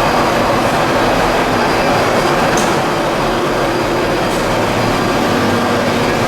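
Plastic pelletizing line for PE and calcium carbonate running: a loud, steady industrial machinery noise with a constant low hum, and two brief faint high chirps in the middle.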